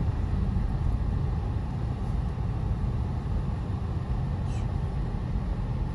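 Car in motion, a steady low rumble of engine and road noise.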